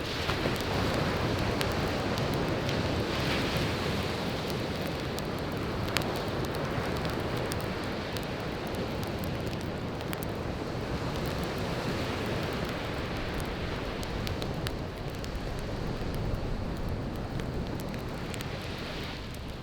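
Surf washing steadily onto a beach, with a wood campfire crackling close by and giving a few sharp pops, the loudest about six seconds in.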